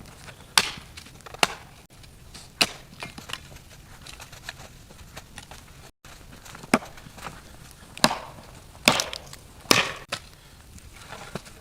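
Firewood being worked: sharp wooden knocks and cracks at irregular intervals, with a run of the loudest strikes about two thirds of the way through.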